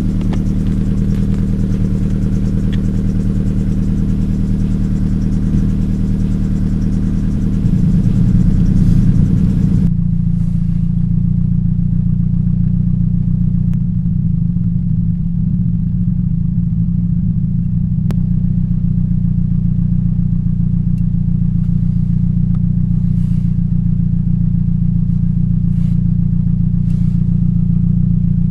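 Toyota Yaris 1.5-litre 1NZ-FE four-cylinder engine idling steadily with a misfire on cylinder 3, caused by a bad ignition coil. About ten seconds in, the sound turns abruptly duller as the higher hiss drops away.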